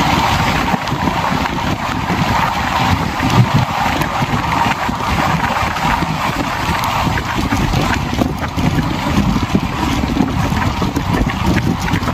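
Express passenger train running at speed: a steady rumble and rattle of the coach on the rails, with wind buffeting the microphone.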